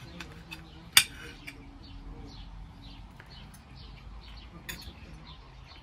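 Small birds chirping in short, repeated falling notes, with one sharp click about a second in.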